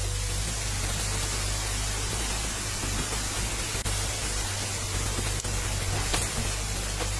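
Steady rushing water with rain, a dense even hiss with a low rumble under it.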